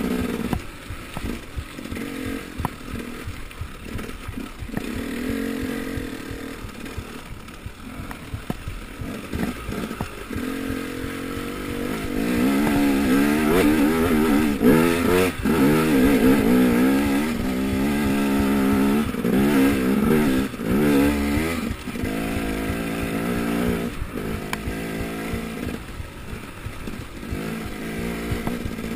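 Enduro motorcycle engine running under the rider's throttle: lower and quieter at first, then from about twelve seconds in louder, its pitch rising and falling as the throttle is opened and closed, easing back again after about twenty-two seconds.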